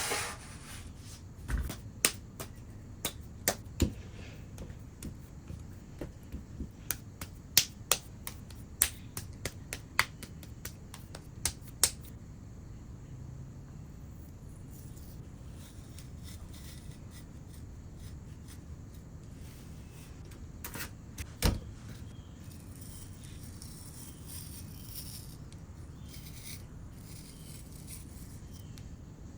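A run of sharp, irregular clicks and taps, about fifteen over ten seconds, then a single louder knock some seconds later, over a faint steady background.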